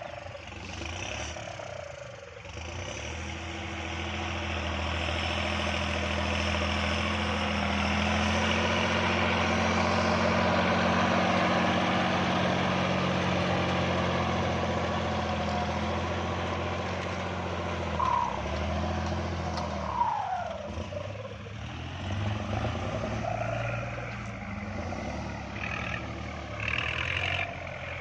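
Kubota MU4902 tractor's diesel engine running steadily under load as it pulls a disc plow through overgrown ground. The engine swells to its loudest in the middle and eases off about two-thirds through, with two short falling squeaks around then.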